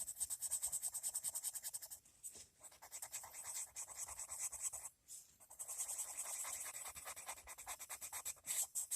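Colored pencil scratching back and forth on paper in quick, even strokes, about seven a second, with brief pauses between runs of shading.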